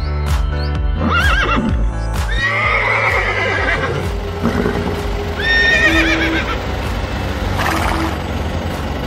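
Horse neighing sound effects, several whinnies with wavering, falling pitch, over background music.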